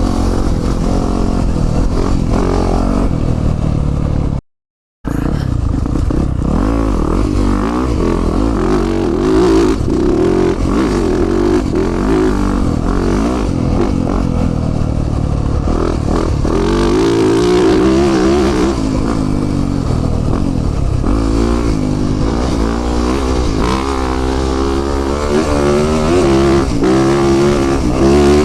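Yamaha 450 four-stroke single-cylinder dirt bike engine under way on a trail, revs rising and falling with the throttle, with clatter from the bike over rough ground. The sound cuts out for about half a second around four seconds in.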